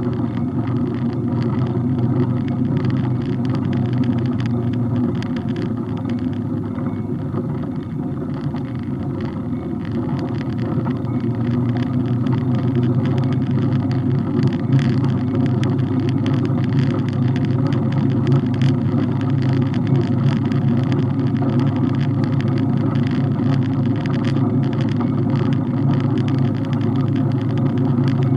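Steady rumble of wind and road noise on a bike-mounted camera while riding, with small rattles and ticks from the mount throughout.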